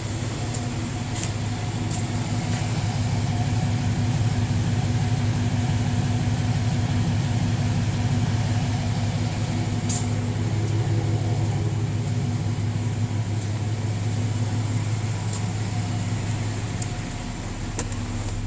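2004 Chevrolet Silverado C1500's 4.3-litre V6 engine running steadily at idle, with a few faint clicks over it.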